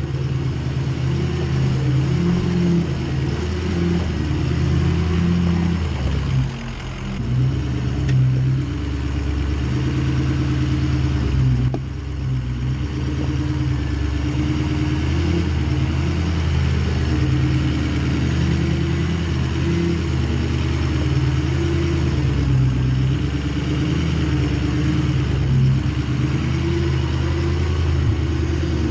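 Ford F-250's Power Stroke V8 turbodiesel engine running under load while crawling up a rocky hill, its note rising and falling with the throttle. It eases off briefly about six and twelve seconds in.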